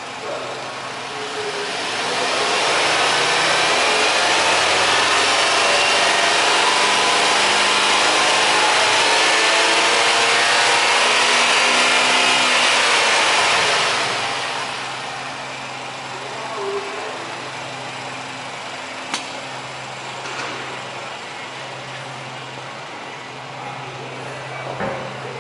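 Nissan X-Trail 20X's 2.0-litre four-cylinder petrol engine revved up from idle, held at high revs for about ten seconds, then let fall back to a steady idle.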